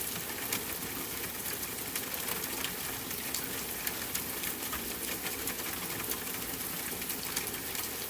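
Soft rain pattering steadily on a window, mixed with a wood fire crackling in a fireplace, giving frequent small sharp pops and clicks over the even hiss.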